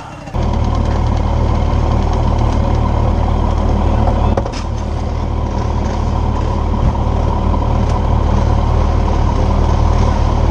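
Motorcycle engine running steadily at a constant low speed. It cuts in abruptly about a third of a second in and dips briefly about four seconds in.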